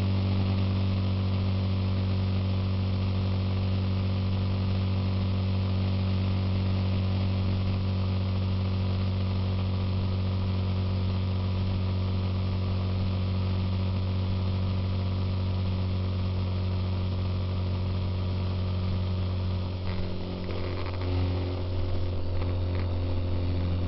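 Suzuki Intruder motorcycle engine running at a steady cruising speed, a constant low drone. About twenty seconds in the tone wavers briefly as the engine speed changes, then settles again.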